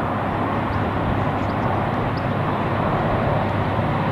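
A train going by: a steady rolling noise with a low engine hum underneath.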